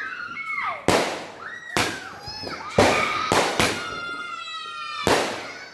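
A 30-shot multicolour aerial repeater cake firing, about six sharp shots at uneven spacing, with excited voices between them.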